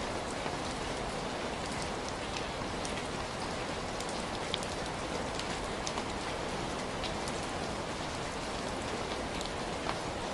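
Heavy rain falling steadily, a dense even hiss with scattered sharper drop ticks hitting a surface.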